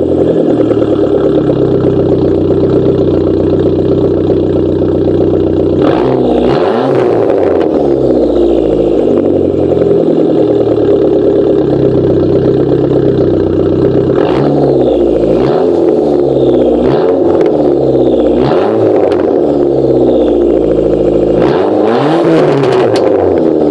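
2004 Dodge Neon SRT-4's turbocharged 2.4-litre four-cylinder engine idling through its exhaust, then blipped again and again from about six seconds in, each blip a quick rise and fall of revs, in a run of several close together after the middle and again near the end. Some of the blips end in sharp backfire cracks.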